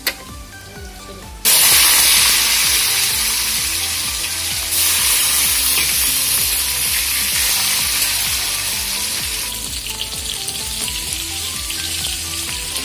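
Sliced bitter gourd frying in hot oil in a wok: a loud, sudden sizzle starts about a second and a half in as the pieces hit the oil, then goes on as a steady hiss that eases off gradually.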